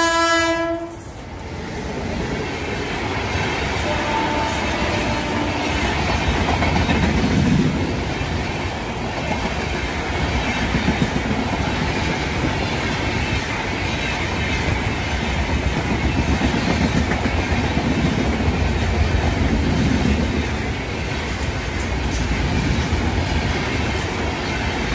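Electric-locomotive-hauled passenger train running past close by: a steady rumble of coaches and wheels on the rails. A short locomotive horn blast cuts off within the first second.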